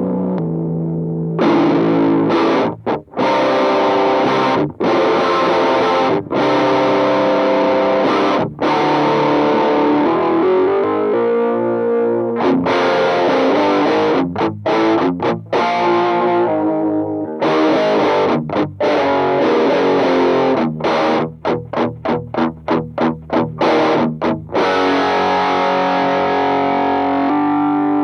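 Distorted electric guitar played through a Mooer Pitch Box pitch-shifting pedal: a hard-rock riff of full, ringing chords broken by sudden stops, with a quick run of short, choppy stabs about three quarters of the way through.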